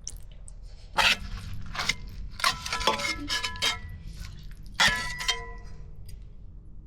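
Metal pots and dishes being handled and knocked together. There is a clank about a second in, a run of clanks in the middle and a last one near five seconds, each leaving a short metallic ring.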